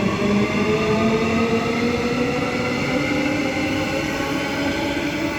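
Electric multiple-unit train pulling away, its traction motors whining in several tones that climb slowly in pitch as it gathers speed, over steady rail and running noise.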